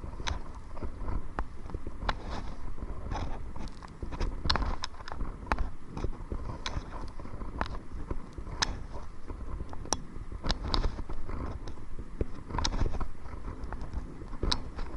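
Kayak paddling: irregular sharp knocks and clicks of the paddle against the kayak and water, over a steady low rumble of wind on the microphone.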